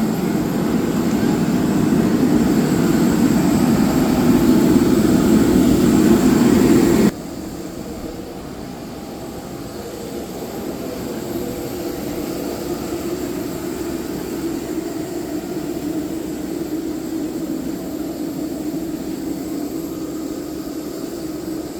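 Airliner engine noise heard inside the cabin: a loud, steady rush for about seven seconds that cuts off suddenly, followed by a quieter, steady drone.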